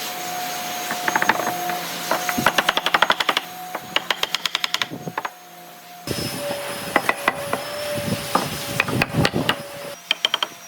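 Woodworking tool work: runs of rapid, sharp tapping at roughly seven or eight strokes a second, over a steady hum that drops a little in pitch about halfway through.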